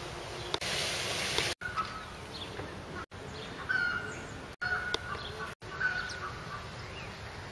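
Short bird calls repeating over a low outdoor background. There is a brief rush of noise about a second in, and the sound breaks off abruptly to silence four times.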